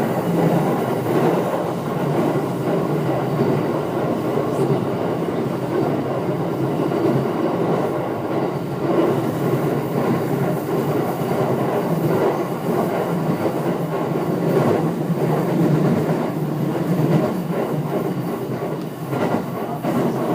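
JR 209 series 500 sub-series electric train running, with a steady rumble of wheels on rail and a few rail-joint clicks.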